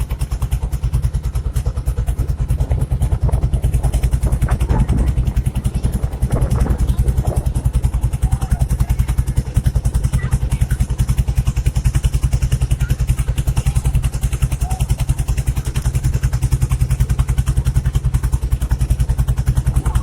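Small boat's inboard engine running steadily at cruising speed, with a fast, even pulse.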